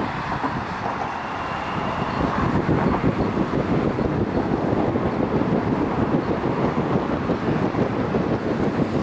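Korail electric commuter train running across a steel railway bridge, with cars passing on the road alongside; the combined noise swells about two seconds in and stays loud and steady.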